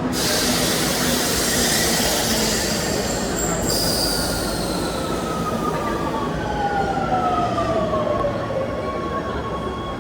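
Rome Metro subway train running, a loud steady rumble and hiss. From about four seconds in, a whine falls steadily in pitch and levels off near the end.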